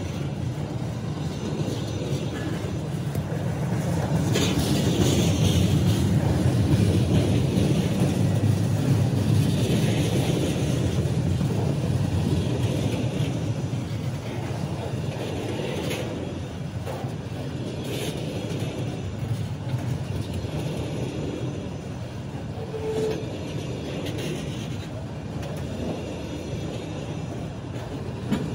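Freight train of tank cars rolling past close by: a steady low rumble of steel wheels on rail, louder from about four seconds in, with occasional clicks from the wheels.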